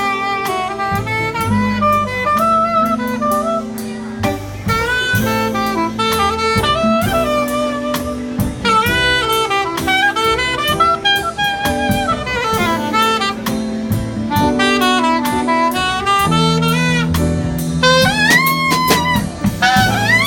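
Soprano saxophone playing a quick, running jazz melody over a live band with drum kit and sustained low accompaniment; near the end it slides up into high held notes.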